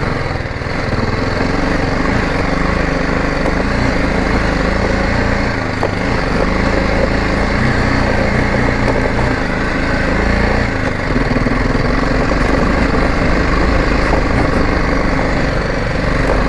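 Motorcycle engine running under load while riding up a steep, muddy dirt trail, its pitch shifting with the throttle. A deeper drone sets in about eleven seconds in.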